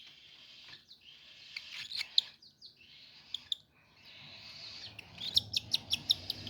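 Baby cockatiels giving begging calls while being hand-fed: short high chirps scattered through, then a quick run of about eight near the end.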